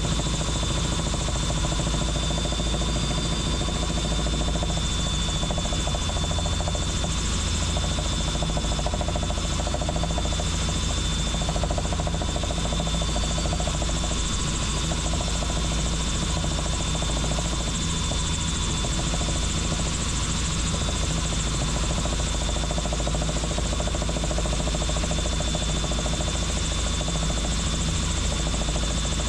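Helicopter in flight: steady rotor and engine noise with a low pulsing beat and a constant high whine.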